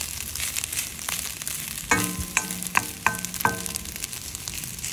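Garlic fried rice sizzling in a stainless steel wok as a wooden spatula stirs and scrapes through it. About two seconds in, four short ringing notes sound in quick succession.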